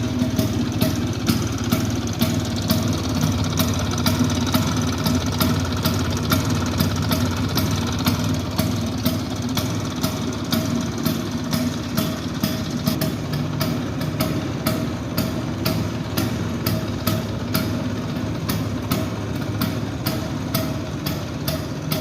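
Bajaj Priya scooter's 150 cc single-cylinder two-stroke engine idling steadily.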